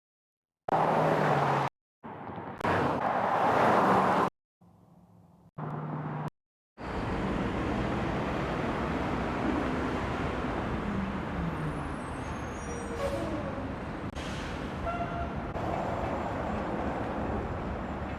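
General city traffic ambience sound effects being auditioned: several short clips start and cut off abruptly in the first seven seconds, then a steady traffic background with vehicles passing plays on.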